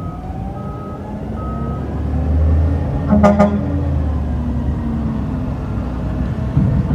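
Garbage truck's reversing alarm beeping in a steady repeating pattern, stopping about two seconds in, then the truck's diesel engine revving up. A brief honk-like toot about three seconds in.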